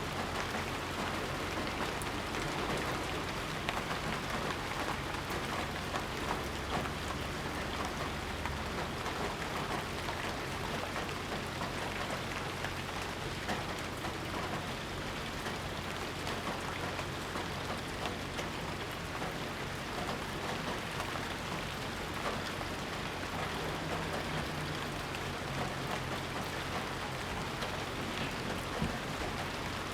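Steady rain falling and pattering on surfaces, with fine individual drop ticks in an even hiss and a faint low rumble underneath.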